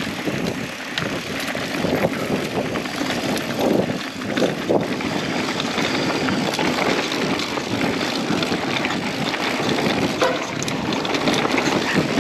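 Mountain bike riding fast down a dirt trail: wind rushing over the microphone, tyres running on dirt, and the bike rattling and knocking over bumps.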